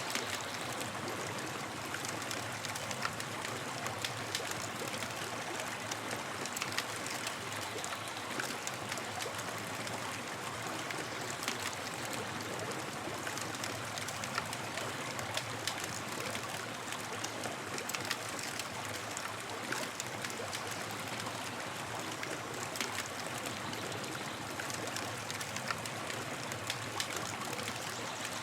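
Campfire crackling: a steady hiss with irregular sharp pops and snaps throughout.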